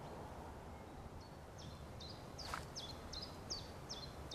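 A small songbird repeating a short high call, each note stepping down in pitch, about two a second, over faint steady outdoor background noise; a single sharper chirp stands out about two and a half seconds in.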